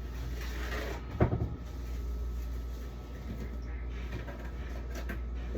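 Handling noises while a fridge is being emptied: a rustle, then one sharp knock about a second in, and a few light clicks near the end, over a steady low hum.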